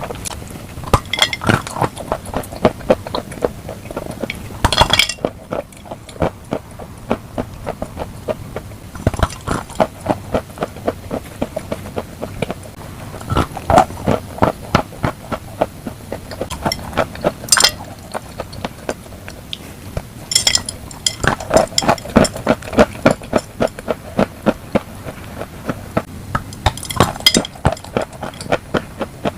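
Close-miked crunchy chewing for ASMR: runs of sharp crunches several a second, coming in clusters every few seconds with short pauses between.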